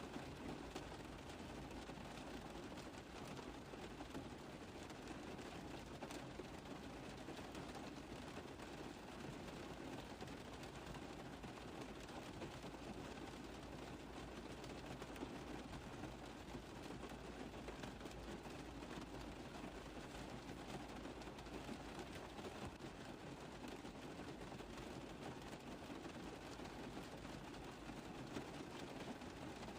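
Rain on a car roof: dense, steady drops tapping on the metal, with no change in intensity.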